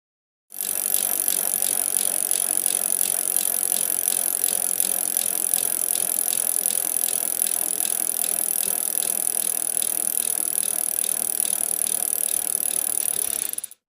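Steady mechanical rattling and ticking, starting about half a second in and cutting off suddenly near the end.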